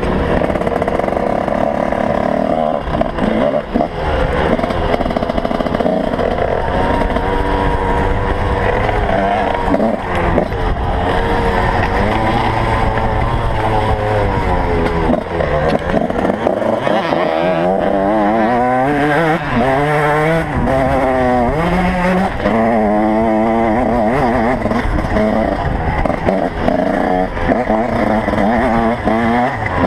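Motocross bike engines revving hard, their pitch rising and falling over and over as they accelerate and back off, with more than one engine heard at once.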